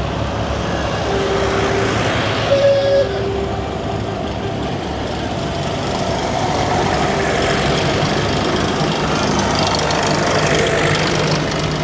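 Tractor engines running as tractors drive past in a procession, with a short higher-pitched sound and a jump in level about two and a half seconds in.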